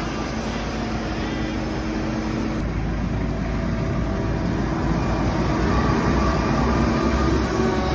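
Heavy vehicle engine running steadily, growing somewhat louder in the second half with a slight rise in pitch.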